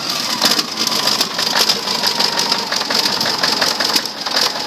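Caterpillar 3408 V8 diesel running with a fast, even clatter, freshly started after sitting in storage for seven years.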